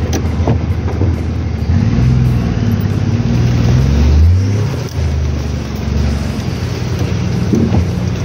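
Nissan Safari 4WD engine running under load as it crawls along a rough track, heard from inside the cab; the revs rise and fall, loudest about four seconds in, with a brief drop about five seconds in.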